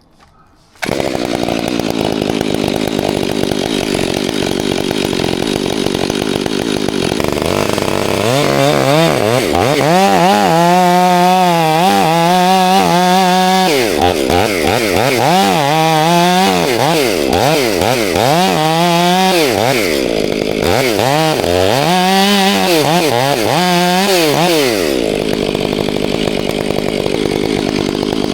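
Two-stroke chainsaw running at high revs, starting abruptly about a second in. From about eight seconds in its pitch wavers up and down again and again as the chain cuts into wood under load, then steadies near the end.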